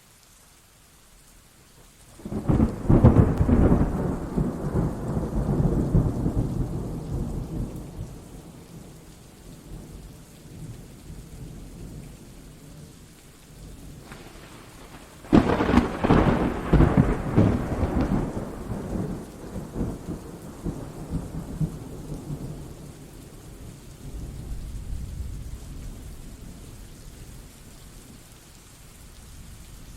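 Thunderstorm: steady rain throughout, with two loud peals of thunder, one about two seconds in and one about halfway, each starting suddenly and rumbling away over several seconds. A fainter rumble of thunder follows near the end.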